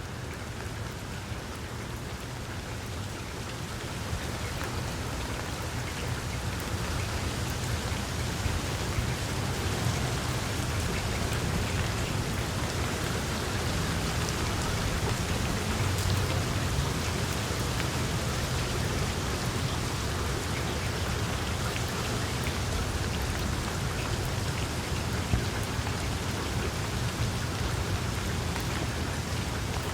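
Wood fire burning in a fireplace, crackling steadily with scattered sharper pops over a low rumble.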